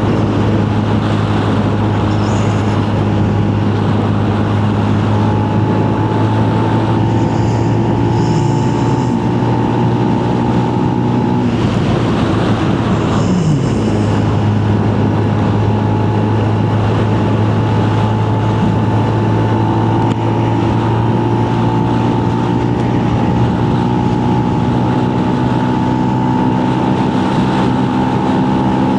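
Benelli BN 125 motorcycle's single-cylinder four-stroke engine running steadily while riding, its pitch dropping twice, about eight and thirteen seconds in.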